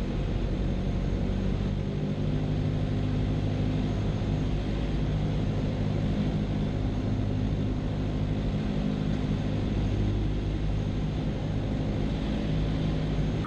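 Cessna 172's piston engine and propeller running steadily, heard inside the cabin as an even hum with a low pitched tone.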